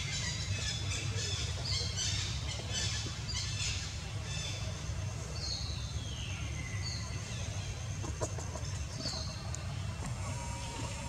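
Birds calling in repeated high whistles that slide downward, several of them, over a dense high chirring and a steady low rumble.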